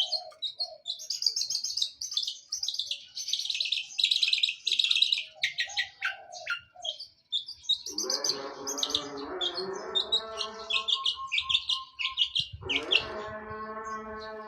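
Long-tailed shrike (cendet) singing in a rapid run of high chirps, mimicking the chattering of fighting house sparrows. A lower, harsher sound made of several tones joins in about eight seconds in and again near the end.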